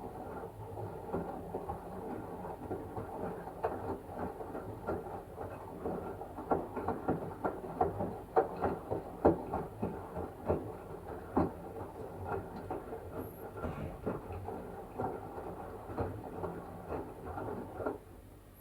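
LG washing machine washing a wet blanket: the drum turns, with a low hum under water sloshing and irregular soft knocks and clicks. It falls quiet shortly before the end as the drum stops.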